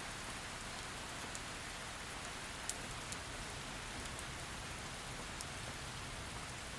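Heavy rain falling steadily as an even hiss, with individual drops ticking sharply now and then, one louder tick a few seconds in.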